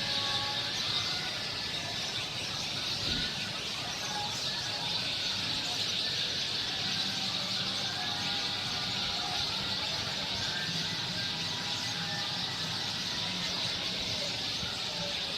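A large flock of birds calling all at once in a continuous, even chorus, with many short chirps standing out over a steady high din.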